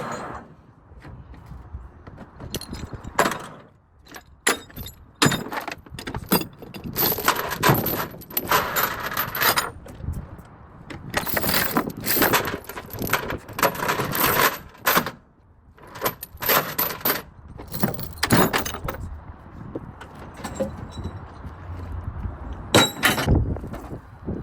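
Heavy load-securing chains and load binders being handled: metal clanking and rattling in repeated bursts, the loudest near the end.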